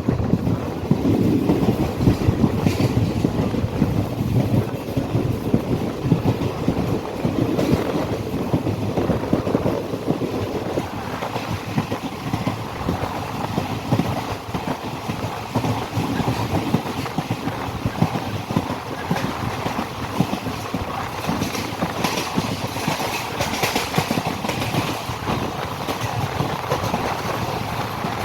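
Passenger train running along the track: a steady rumble of the carriage with wheels clattering over the rails. The rumble is heavier in the first ten seconds or so, and the clatter sharper toward the end.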